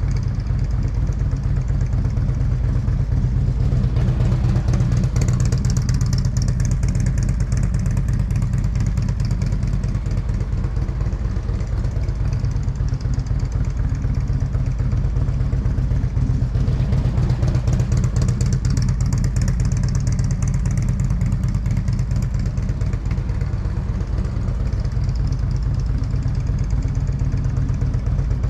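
Motorcycle engine running at low speed during slow tight turns, growing louder twice: about five seconds in and again about eighteen seconds in.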